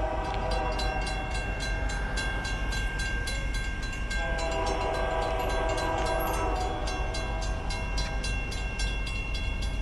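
Union Pacific locomotive air horn sounding long blasts for the grade crossing, one fading about two seconds in and another starting about four seconds in, over the crossing's mechanical bells ringing rapidly and steadily.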